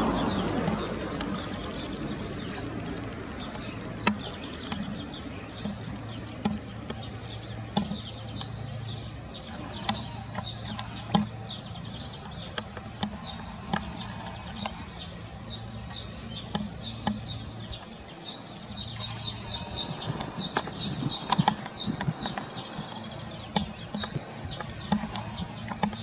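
Birds chirping with short, high calls, coming in quick runs about ten seconds in and again around twenty seconds in, over a faint low hum.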